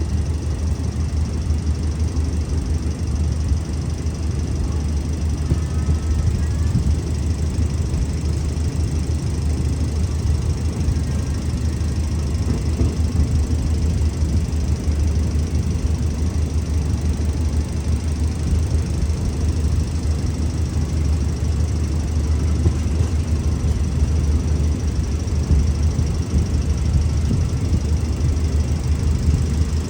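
Alsthom diesel-electric locomotive 4138 idling, its engine running steadily with a low-pitched sound.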